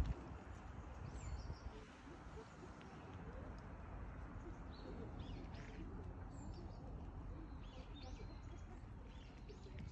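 Birds chirping now and then, short scattered calls over a faint steady background noise.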